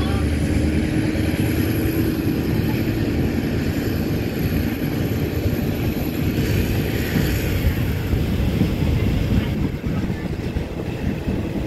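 Steady running noise of a passenger train heard from on board: a low rumble under a wide hiss. It eases slightly about ten seconds in.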